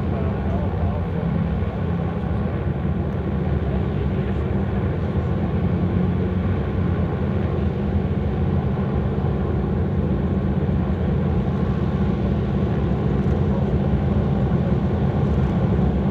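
Vintage piston aircraft engines running steadily, close by and slowly getting louder toward the end.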